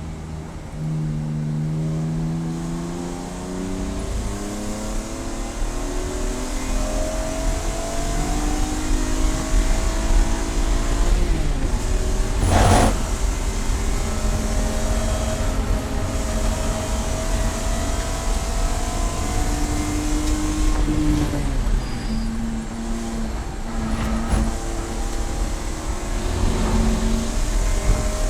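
Race car engine pulling hard through the gears, its pitch climbing steadily and then dropping back at each shift, then falling away under braking before picking up again. A single sharp knock cuts through about halfway.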